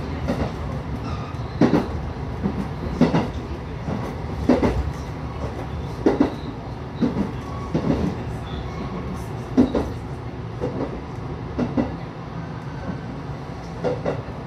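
Electric train running along the line, heard from inside the carriage: a steady low rumble with the wheels clicking over rail joints, mostly in quick pairs, about every one and a half seconds.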